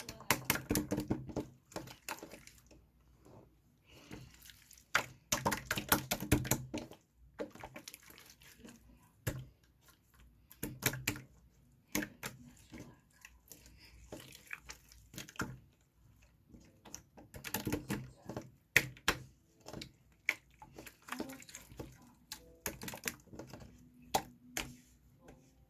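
Slime being squeezed and poked by hand, giving irregular runs of wet clicks, pops and squelches with short pauses between.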